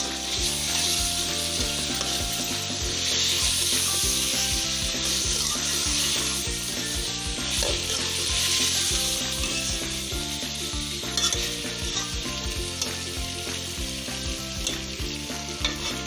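Chicken, spices and fresh tomatoes sizzling in hot oil in a pot while being stirred and mixed with a spoon, a steady hiss with occasional knocks of the spoon.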